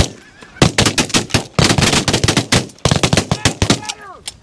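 A volley of shotgun fire from several hunters shooting at geese, dozens of shots in quick, overlapping succession starting about half a second in. Goose honks are heard near the end.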